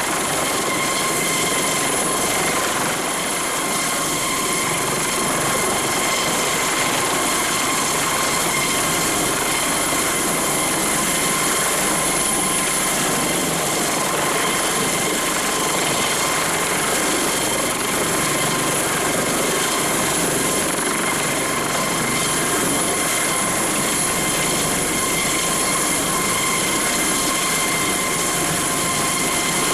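Airbus Helicopters AS365N Dauphin twin-turboshaft helicopter running steadily in flight: a loud, even rotor noise with a steady high-pitched whine over it.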